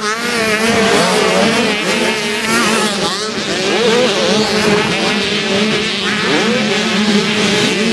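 Several motocross dirt bike engines revving at once, their pitches rising and falling over one another as the bikes accelerate and shift.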